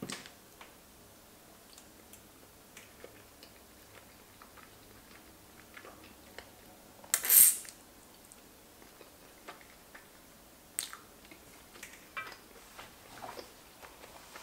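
Quiet, close-miked chewing of soft sauced pasta, with small wet mouth clicks. About seven seconds in comes a short, loud slurp of sauce from a spoon.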